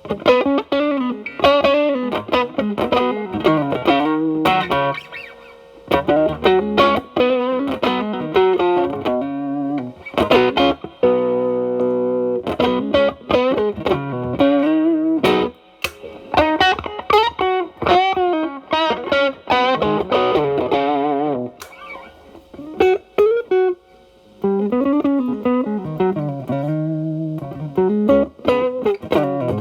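Fender Telecaster through an Xotic BB-series overdrive pedal into a Marshall Valvestate amp's clean channel, played as improvised blues lead: single-note phrases with string bends and vibrato, and a chord left to ring briefly about eleven seconds in. The overdrive is cleaned up, so the tone is only lightly driven.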